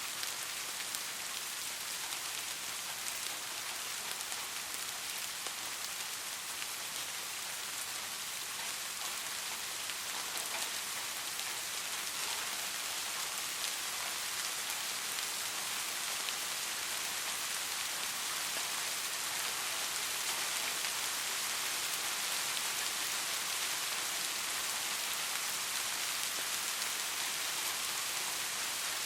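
Soft rain falling steadily, a dense even hiss of many small drops pattering.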